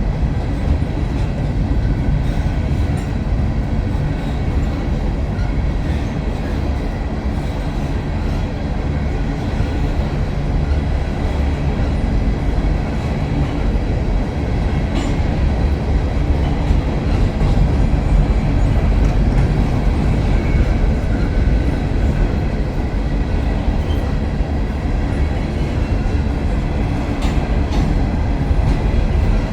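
Grain train of loaded freight cars rolling past: a steady, heavy rumble of steel wheels on rail with occasional clacks.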